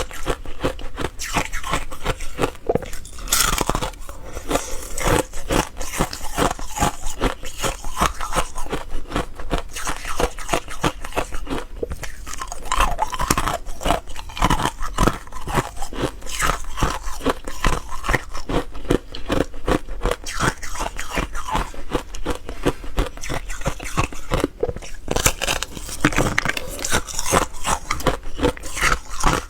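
Ice being bitten and chewed, a continuous run of crisp crunches, several a second.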